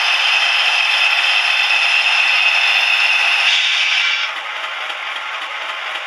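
OO gauge model diesel locomotive running on the layout: a steady hissing, scraping mechanical noise with no deep bass, which drops in level about four seconds in.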